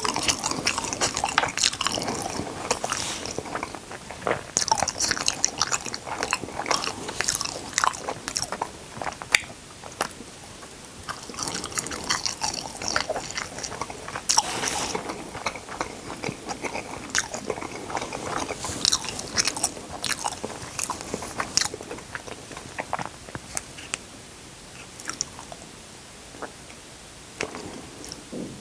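Close-miked eating: irregular crunchy bites and chewing, with crackles coming in dense clusters.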